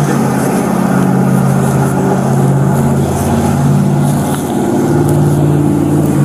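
Motor vehicle engine running close by: a steady low hum whose pitch shifts up and down a few times.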